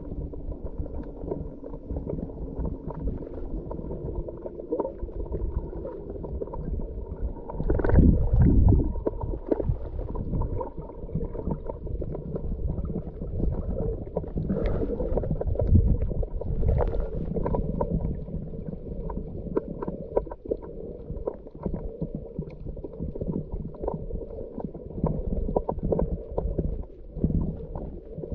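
Underwater sound picked up through a GoPro's waterproof housing during a scuba dive: a muffled low rumble with a faint steady hum, broken by louder gurgling bursts of exhaled regulator bubbles about 8 and 16 seconds in.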